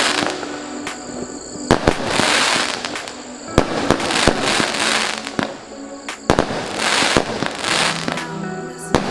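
A 150-shot consumer fireworks cake with 20 mm tubes firing in sequence: sharp bangs at uneven intervals, many followed by a rushing, crackling wash of about half a second as the shells burst.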